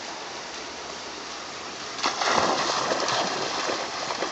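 Running river water with a steady rush. About two seconds in comes a sudden loud splash, followed by scattered smaller splashes.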